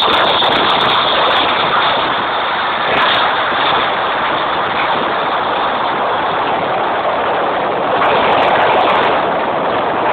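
Fireworks display at its height: a dense, unbroken barrage of bursts and crackle blending into one loud, steady roar.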